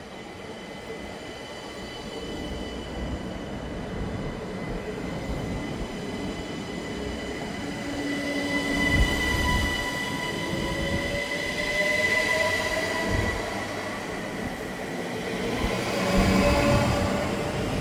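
A train running past, growing louder, with steady high-pitched squealing tones and a whine that rises in pitch from about halfway through.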